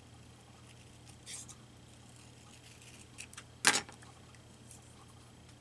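Scissors cutting paper: a brief paper rustle about a second in, a few faint snips, then one sharp click just past the middle.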